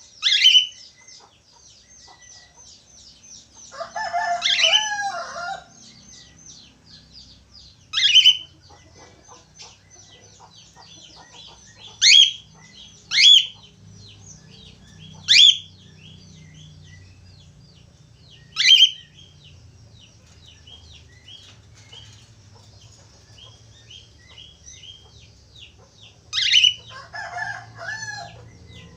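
Budgerigars warbling in a steady, fast, high chatter. About seven loud, sharp, shrill calls cut through it, and two longer, lower squawks come about four seconds in and near the end.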